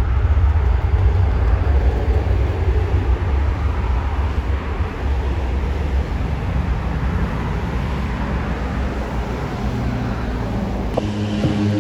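Aircraft engines rumbling loudly with a deep, steady roar. Near the end a steady droning hum of several tones comes in, and the sound changes abruptly about 11 seconds in.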